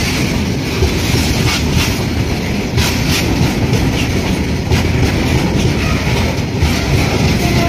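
Indian Railways passenger train running on the track: a steady loud rumble with the wheels clattering over the rail joints.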